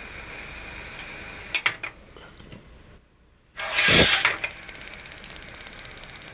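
Paloma gas water heater working: a steady hiss, a few sharp clicks, then a brief loud whoosh about four seconds in, followed by fast, even ticking.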